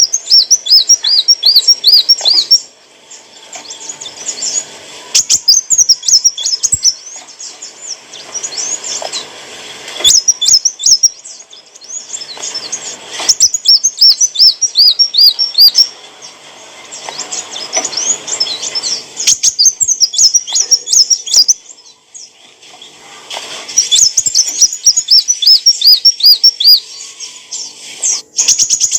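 Sunbird (kolibri wulung) singing: high, rapid twittering phrases with runs of quickly repeated looping notes. The song comes in bouts of a couple of seconds, broken by short pauses.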